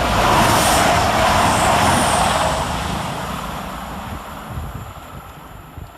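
Class 220 Voyager diesel multiple unit passing through at speed: a loud rush of engine and wheel noise that peaks in the first couple of seconds and then fades away as it recedes.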